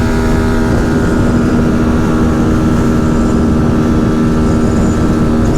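Engine of the motor vehicle being ridden, running at a steady speed with an unchanging pitch and very loud from the rider's position. Wind rumbles on the microphone underneath.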